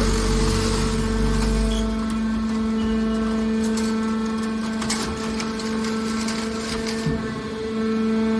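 Hydraulic car scrap baler running: a steady pump hum, with a deep rumble that eases off about two seconds in and a few sharp metallic cracks as scrap is compressed.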